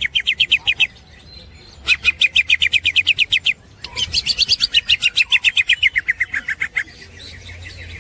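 Green leafbird (cucak hijau) singing its rapid chattering 'ngekek' song: three bouts of quick, evenly repeated sharp notes, about ten a second. The longest bout, from about four seconds in, slides down in pitch near its end.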